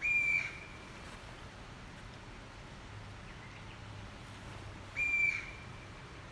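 A bird calling twice, about five seconds apart. Each call is a single short, steady whistled note of about half a second.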